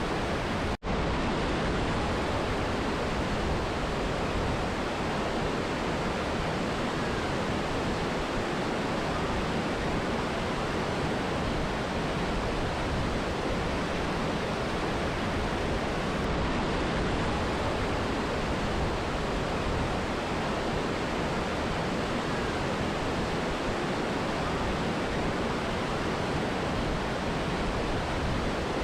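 Steady, even rushing of a mountain river and waterfall, which cuts out for an instant about a second in.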